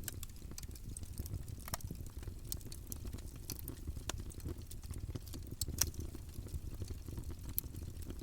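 Campfire burning with a steady low rumble of the flames and irregular crackles and pops of the wood, a few sharper pops standing out, the loudest shortly before six seconds in.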